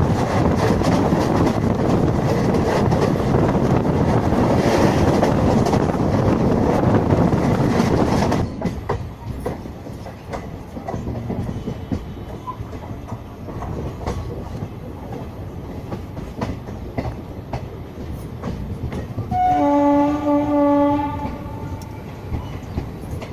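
Train running on the track, heard from on board: a loud rushing rumble that starts abruptly and cuts off sharply about eight seconds in, then quieter running with clicks from the rails. Near the end the electric locomotive's horn sounds once, for about a second and a half.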